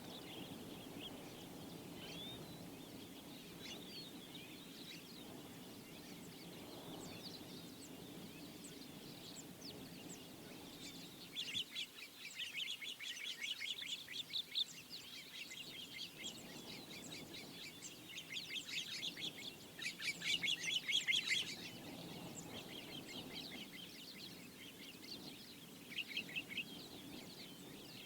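Birds calling in the bush: scattered chirps, then several loud bursts of fast, rattling chatter lasting a few seconds each. Under this there is a steady low background noise that fades out about a third of the way through.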